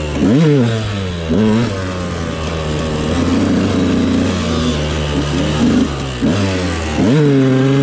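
Dirt bike engine revving hard in sand, its pitch shooting up and falling back about half a second in, again after about a second and a half, and near the end, with steadier throttle in between. The rear tyre is finding almost no grip in the wet sand.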